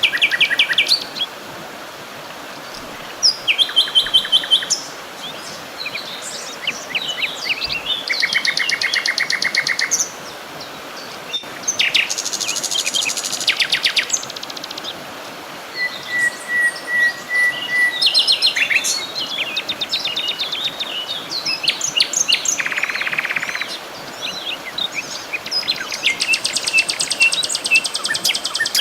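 A chorus of several songbirds singing over one another, with rapid trills, buzzy phrases and short whistled notes, over a faint steady hiss of insects.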